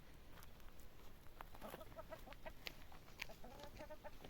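Faint chicken clucking: short runs of calls about a second and a half in and again near the end, with scattered light clicks.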